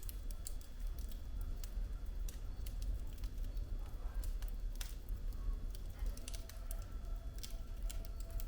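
Wood fire burning in a fireplace: irregular sharp crackles and pops of the burning firewood over a steady low rumble of the flames, with one louder pop about five seconds in.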